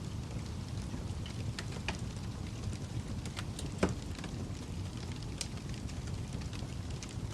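Wood fire burning in a fireplace: a steady low rumble of the flames with scattered sharp crackles and pops from the logs, one louder pop about four seconds in.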